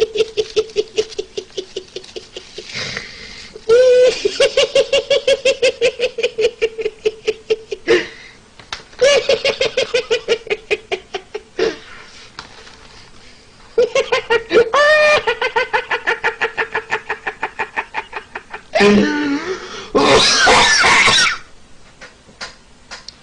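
High-pitched laughter in four long fits of rapid, even ha-ha-ha pulses, about six a second, with short breaks between fits. Near the end comes one louder, harsher shriek-like burst.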